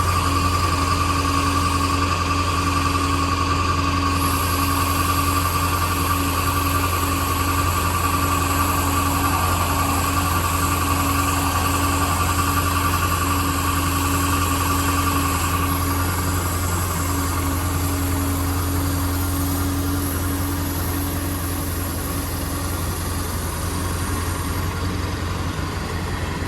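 Ford 7.3L Powerstroke V8 turbodiesel running steadily at idle, with a steady whine over it that fades out about two-thirds of the way through.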